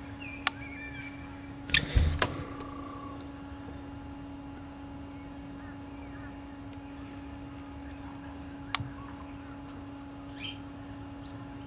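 Small birds chirping faintly over a steady low hum, with a cluster of sharp knocks about two seconds in and single knocks near the start and the end.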